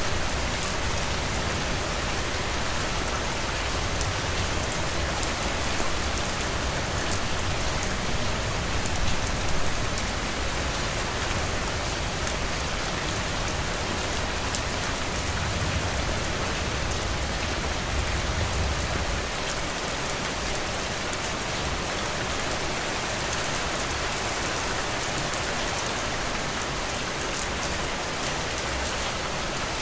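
Steady heavy rain pattering on a roof, with dense fine drop ticks. A low rumble underneath stops about two-thirds of the way through.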